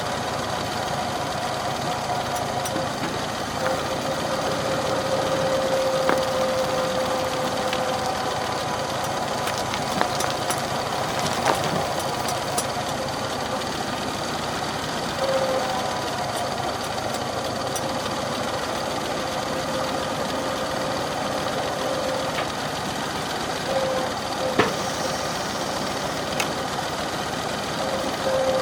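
McCormick Farmall H tractor's four-cylinder engine running steadily, with a few sharp clicks or knocks along the way.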